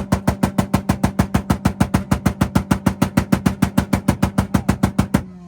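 Honda Del Sol engine held on a two-step launch limiter, the ignition cut making a rapid, evenly spaced string of bangs, about eight or nine a second, over a steady engine drone. The limiter pops cut off abruptly near the end as the revs drop.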